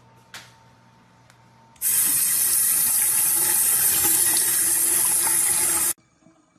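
A short click, then water running from a single-lever waterfall basin faucet into the sink; the flow starts suddenly about two seconds in and cuts off sharply about four seconds later.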